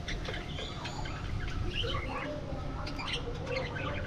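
A flock of budgerigars chirping and chattering: many short, overlapping chirps and warbles over a steady low rumble.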